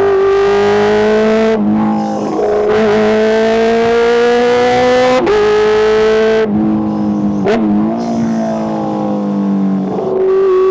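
Kawasaki H2's supercharged 998 cc inline-four engine at high revs, pulling hard through the gears. The pitch climbs within each gear and drops sharply at each shift, with a dip where the throttle eases off past the middle, then a slow fall before picking up again near the end.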